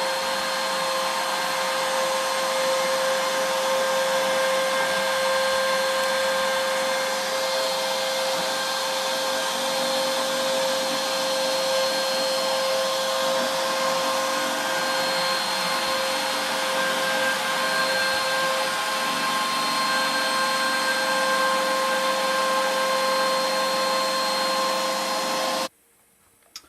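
CNC router spindle running steadily while a small ball-nose router bit carves a wood relief: a steady high whine over a hiss of cutting noise. It stops suddenly near the end.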